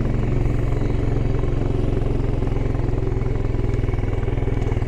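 Small petrol engine of a ride-on off-road vehicle running steadily under way, heard from aboard, with a fast, even engine pulse.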